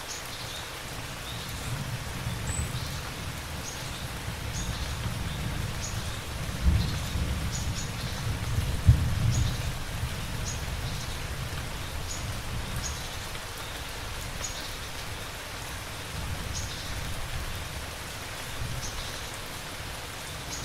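Steady heavy rain with thunder rumbling low underneath, swelling to two sharp cracks about seven and nine seconds in.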